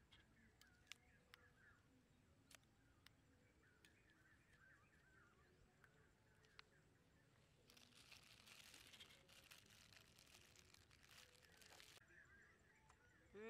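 Very faint outdoor ambience: small birds chirping quietly in the background, with a few soft clicks and a short stretch of rustling from about eight to twelve seconds in.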